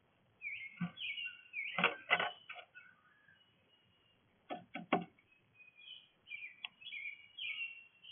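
Small songbirds chirping and twittering at a bird feeder, with sharp knocks against the feeder in quick clusters, loudest about two seconds and five seconds in.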